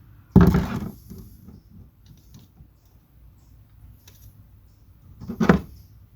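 Two loud clunks of something being handled or set down, the first about half a second in with a short trailing rattle, the second near the end.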